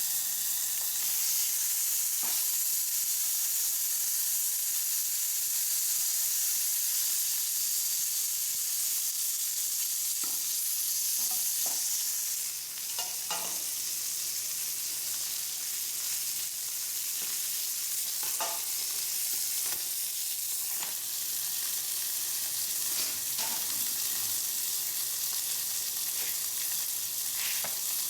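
Hamburger sizzling as it cooks over a wood-gas pellet stove's flame: a steady hiss with scattered pops and crackles. The hiss eases somewhat about halfway through.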